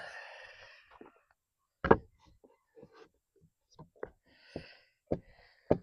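Hand tools and parts knocking and clinking on a Chrysler outboard motor being worked on. There are scattered sharp knocks, the loudest about two seconds in, and brief rustling or scraping at the start and again about four and a half seconds in.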